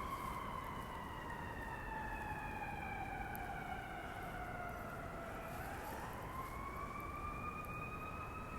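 Emergency vehicle siren wailing: its pitch slides slowly down for about five seconds, then rises again and levels off.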